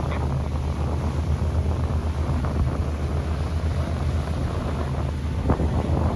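Cruise boat's engine running, a steady low drone, with wind buffeting the microphone.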